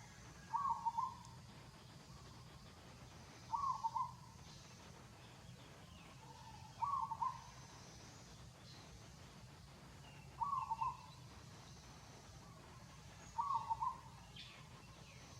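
A bird calling over and over: a short call of quick pulsing notes, repeated five times at about three-second intervals.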